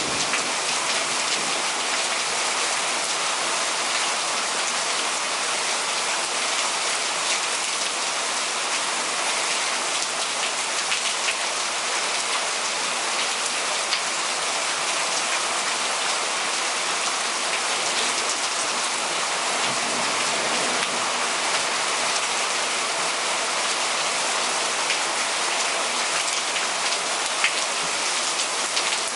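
Heavy rain from a thunderstorm downpour, falling steadily with no letup.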